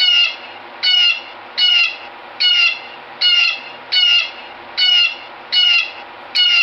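Blue jay calling: a harsh "jay" call repeated about once every 0.8 seconds, nine times, each call dropping slightly in pitch, over a steady outdoor hiss.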